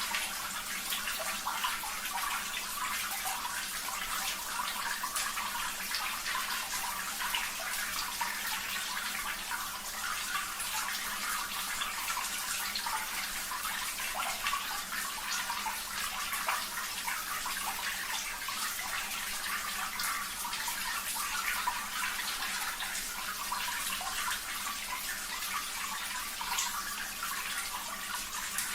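Steady running, splashing water, a continuous water-therapy background track, with small irregular drip-like flecks.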